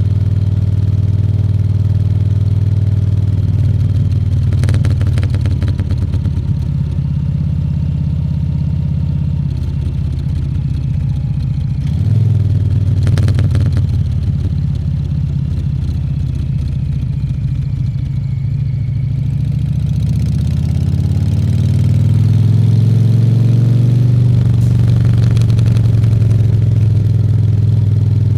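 Harley-Davidson Fat Bob 114's Milwaukee-Eight 114 V-twin running steadily on the ride. The engine note shifts about 12 s in, then climbs and gets louder about two-thirds of the way through as the bike speeds up.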